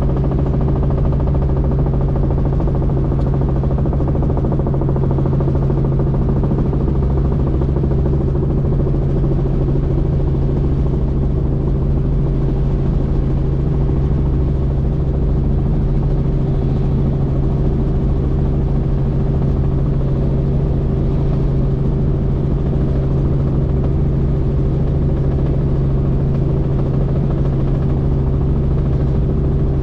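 Helicopter in steady flight: engine and rotor running evenly, a loud constant drone with a steady low hum.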